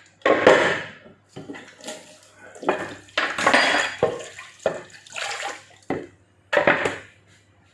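Kitchen dishes and utensils being handled: a string of irregular clatters and scrapes, about a dozen short bursts.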